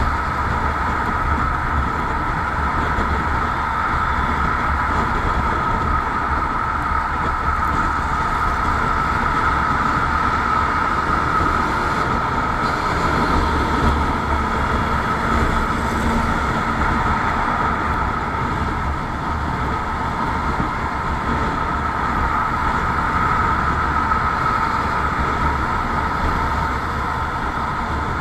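Motorcycle running steadily on the move, a constant engine drone with road and wind noise and no change in pace.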